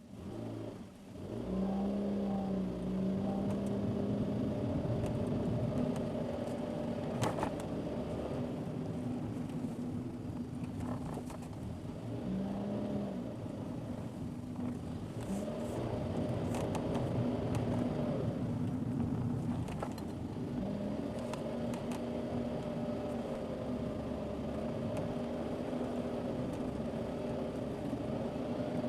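A car's engine running under way, with tyre and road rumble, heard from inside the cabin. The engine comes in about a second and a half in and its pitch rises and falls as the car drives, with occasional sharp knocks and rattles.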